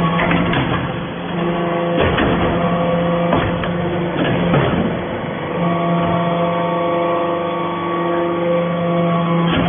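Hydraulic metal-shavings baler running: a steady machine hum from its hydraulic power unit, with scattered knocks from the press. The hum breaks off a couple of times and resumes.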